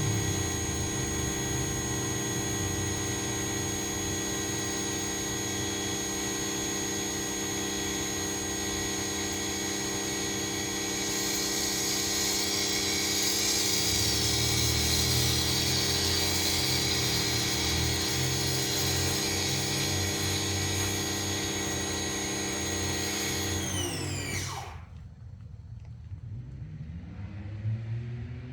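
Ryobi 2000 psi pressure washer running steadily with a hissing water spray that grows stronger about halfway through. Near the end it shuts off, its pitch sliding down as the motor winds down, leaving only a faint background.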